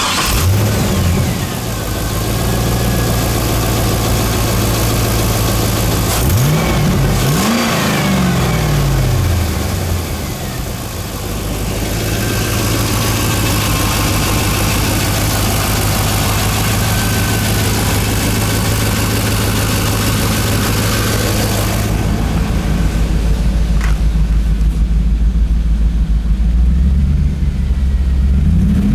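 A 34,000-mile 5.7-litre LS1 V8 from a 2002 Camaro Z28 running at a steady idle, blipped twice in quick succession about seven seconds in, then settling back to idle.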